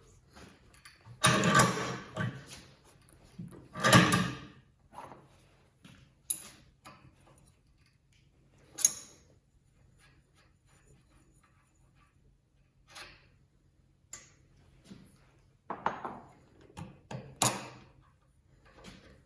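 Scattered knocks and clatters of hard parts and tools being handled during hands-on repair work on an angle grinder, with quiet gaps between them. The loudest clatters come about one to two seconds in and again around four seconds in.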